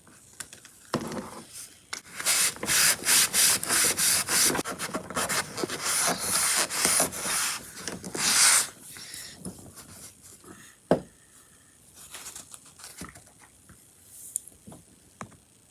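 An HO scale plastic boxcar body being wiped clean by hand: a run of quick rubbing strokes over a few seconds, then fainter handling with a couple of light knocks.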